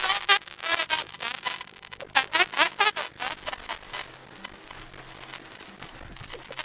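A high-pitched voice making wavering sounds in short bursts for the first few seconds, then quieter for the rest.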